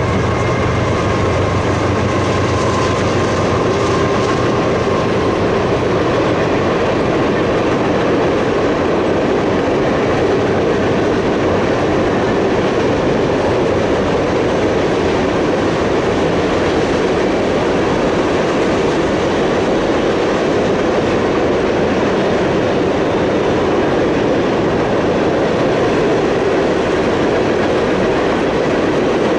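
Freight train cars rolling past on the track: a loud, steady rumble of steel wheels on rail. A few faint steady tones sound over it in the first few seconds.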